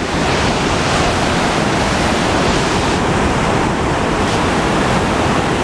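Steady, loud rush of water from Horsetail Falls cascading close by.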